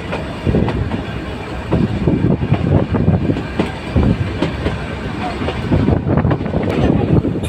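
Nilgiri Mountain Railway metre-gauge train running on the track: a steady rumble with irregular wheel knocks and clatter.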